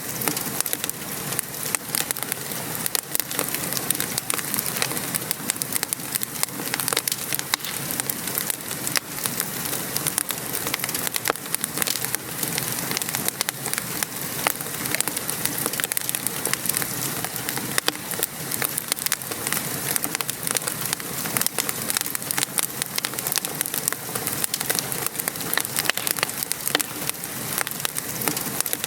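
Steady patter of rain mixed with a crackling fireplace fire, many small pops and snaps scattered throughout.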